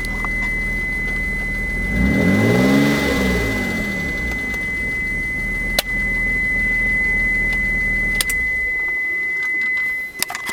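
Mitsubishi 3000GT VR4's twin-turbo V6 idling with a tick. It is revved once, briefly, about two seconds in, then drops back to idle, and the engine sound cuts out near the end. The owner hears the tick as more pronounced than lifter tick but unlike rod knock, with one tick more distinct than the rest, and suspects a collapsed lifter.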